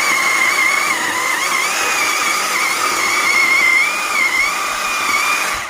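Iron Hope two-stroke chainsaw engine running at high speed, a steady high-pitched whine that wavers slightly in pitch, then cuts off abruptly at the very end.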